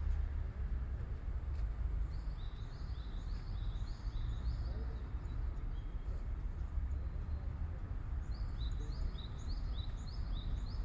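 A bird singing runs of short, repeated high notes, about three a second, in three bouts, over a steady low outdoor rumble.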